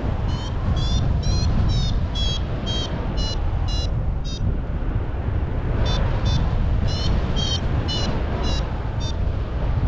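Paragliding variometer beeping about twice a second, the climb tone that signals rising air, stopping for a second or so midway and then resuming. Behind it, steady wind rumble on the microphone.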